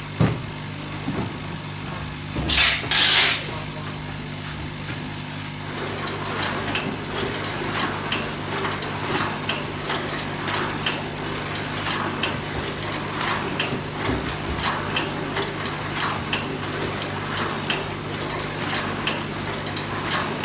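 Chewing gum overwrapping machine running with a steady hum, a short loud double hiss about three seconds in, then a regular clacking about every two-thirds of a second as it cycles.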